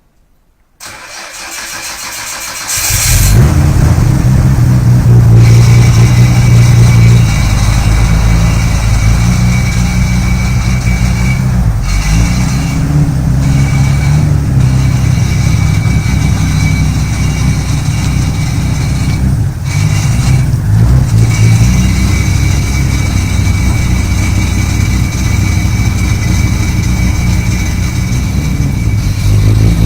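Nissan Skyline GT-R R34's RB26DETT twin-turbo straight-six cranked by the starter for about two seconds. It catches about three seconds in and runs at a loud, steady idle, its pitch shifting slightly a few times.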